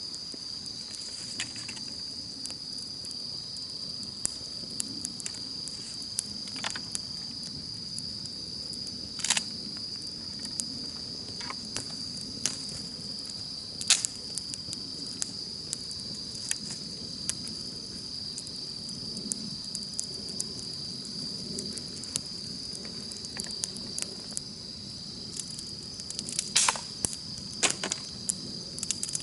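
Crickets chirring in one steady high-pitched note over a wood campfire crackling, with scattered pops; a few louder pops come about nine seconds in, at about fourteen seconds, and in a quick cluster near the end.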